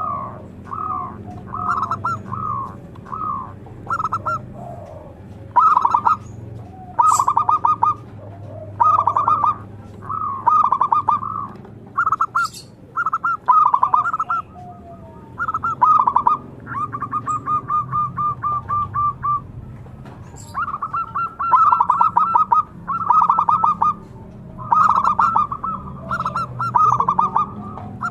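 Zebra dove (perkutut) singing: repeated short phrases of rapid, staccato cooing notes, with a longer even trill a little past halfway.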